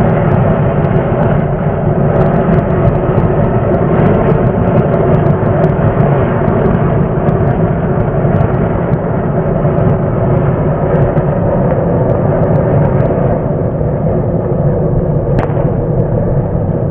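Anar flower-pot fountain firework burning: a loud, steady hissing roar of spraying sparks that begins to die down near the end.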